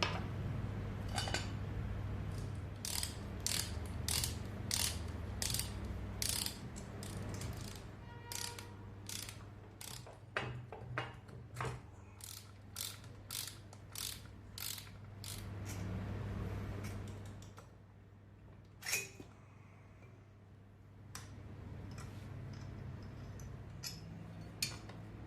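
Hand tools working on a CG 125 motorcycle engine: a long run of sharp metallic clicks, about one or two a second, over a steady low hum, with a few single clicks near the end.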